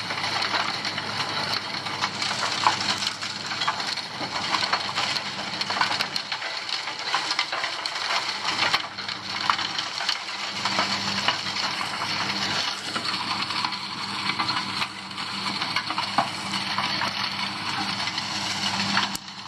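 Asphalt-cutting machine tearing up old road asphalt: continuous crunching and crackling of breaking pavement with frequent sharp cracks, over a steady engine hum.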